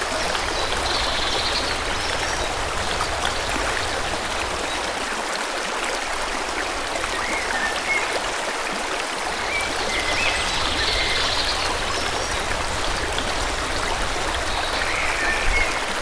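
Forest river flowing steadily, a constant rushing of water, with brief bird chirps above it: a couple of short clusters of high chirps, about a second in and again around ten seconds in, and a few single chirps in between.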